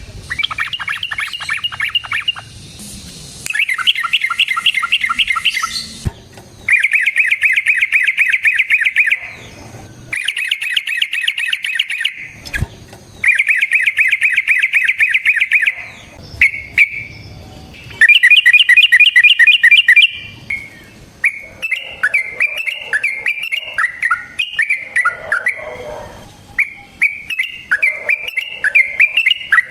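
Yellow-vented bulbul (trucukan) singing: a string of loud bouts of rapid repeated notes, the long rolls known as 'ropel', each lasting two or three seconds with short breaks. About two-thirds of the way through they give way to a more varied, jumbled chatter.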